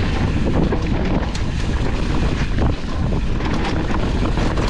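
Wind rushing over the microphone of a downhill mountain bike rider at speed, with the rattle and short knocks of the bike and tyres over the dirt trail, thickest near the end.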